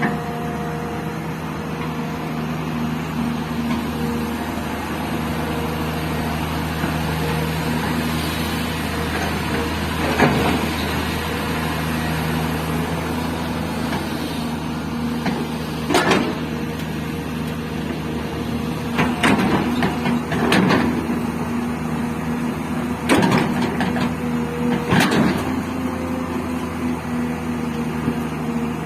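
Hydraulic excavator's diesel engine running steadily while it loads gravel into a tipper truck, with several sharp crashes and scrapes of the bucket and gravel, the loudest cluster in the second half.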